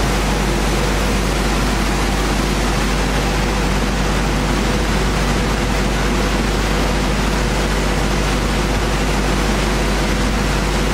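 Sanding machinery running steadily: a low hum under an even rushing noise, with no change in level.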